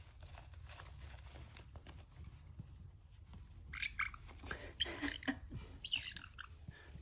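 Faint chewing and crunching, as of an animal eating, with a few short high-pitched sounds about two-thirds of the way through.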